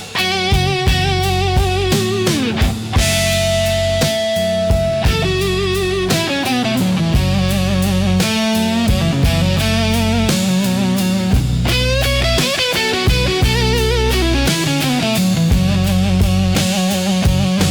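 Instrumental break in a rock song: an electric guitar plays a lead line with vibrato and bent notes over bass and drum kit.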